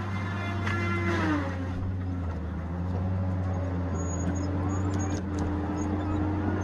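Tigercat 870C feller buncher running under work, its engine and hydraulics giving a steady drone. About a second in, a whine falls in pitch, and a few knocks follow near the middle.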